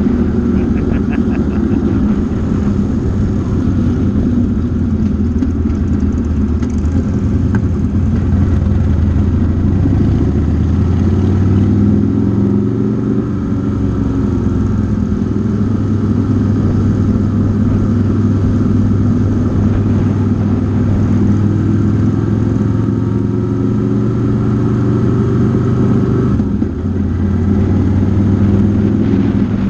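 Motorcycle engine running steadily while riding on the road. The engine note shifts slightly in pitch midway and dips briefly near the end.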